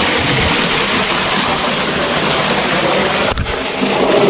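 Loud rushing water of a canyon stream or small waterfall, a steady hiss. There is a brief bump and a change in the sound a little over three seconds in.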